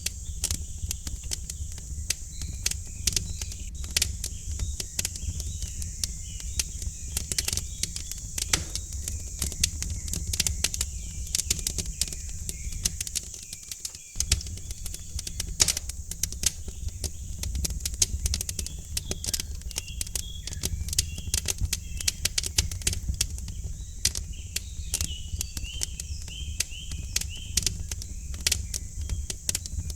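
Wood fire crackling, with many irregular pops and snaps over a low rumble of flames, and birds chirping faintly behind it, more often in the second half.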